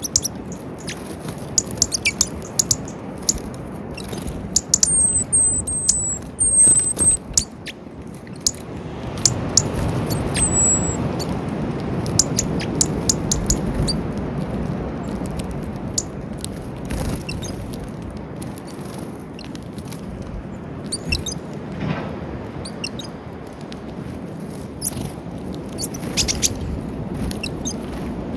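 Small birds at a peanut feeder: sharp pecking clicks and taps scattered throughout, with a few short, very high, thin chirps in the first half. A low steady rumble swells up in the middle and fades back.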